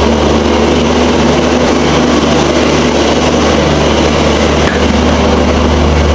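A train's engine running steadily at a station platform: a loud, deep, steady hum with a faint regular pulsing.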